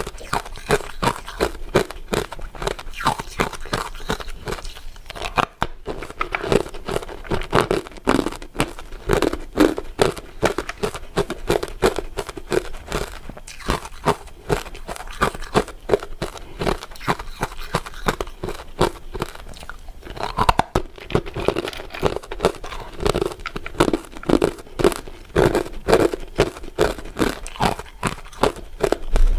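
Close-up crunching and chewing of crisp crystal ice dessert pieces: a dense run of sharp cracks and crackles, several a second, with short pauses between bites.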